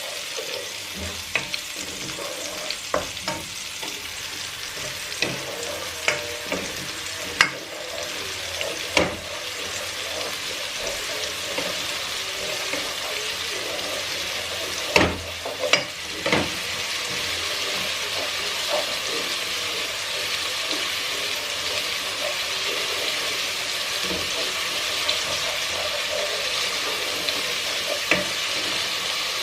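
Onions and ground spices sizzling in hot oil in a pan as they are stirred, with a spatula knocking and scraping against the pan. The knocks come often in the first half and die away, leaving a steady sizzle.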